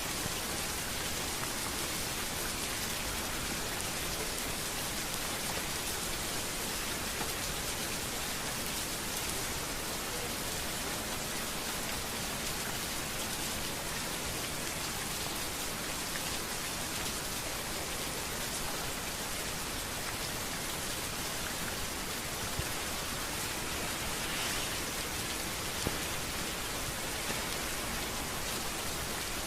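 Steady rain falling on hard street surfaces: a dense, even hiss of many drops, with a few louder single drop ticks near the end.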